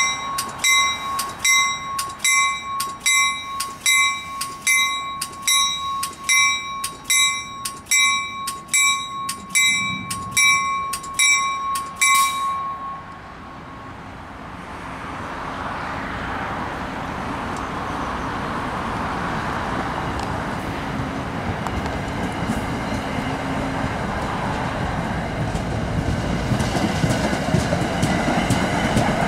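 A warning bell rings steadily, about two strokes a second, and stops about twelve seconds in. Then the steady rolling rumble and rail noise of NJ Transit passenger coaches passing grows louder.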